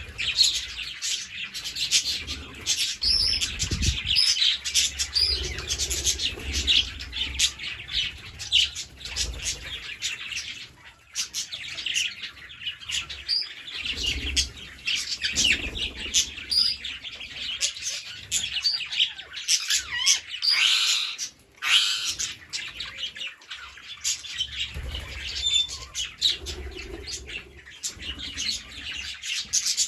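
A flock of green parrots chattering, with many overlapping short chirps and calls and no break, plus occasional low rumbles.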